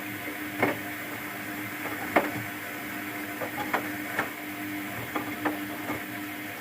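Luxor WM 1042 washing machine running a Cotton 40°C wash: a steady motor hum with irregular sharp clicks and knocks, the loudest about two seconds in.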